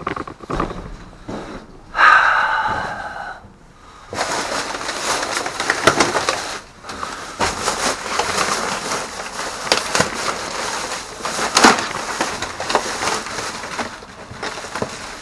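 Plastic bags and packaging rustling and crinkling as discarded goods are rummaged through and pulled out, a dense crackle of sharp ticks. A brief squeaky pitched sound comes about two seconds in.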